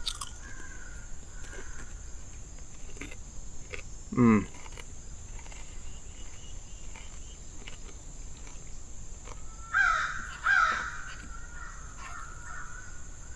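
Crows cawing outdoors, two loud harsh caws in quick succession near the end, with fainter bird chirps in between. About four seconds in, a single loud sound sweeps steeply down in pitch.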